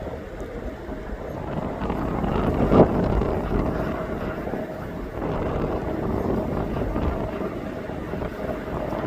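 Steady rumble of jet aircraft engines with wind buffeting the microphone, a faint steady whine running through it and a brief knock about three seconds in.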